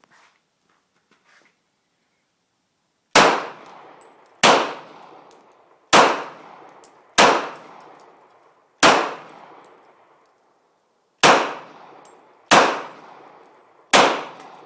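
Glock 22 Gen 4 pistol in .40 S&W fired eight times at an uneven pace, roughly a shot every second or so with a longer pause after the fifth. Each shot is a sharp crack followed by an echoing tail.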